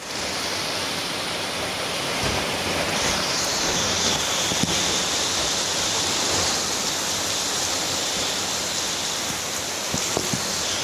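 Heavy rain pouring steadily, with a few sharp drip or splash clicks.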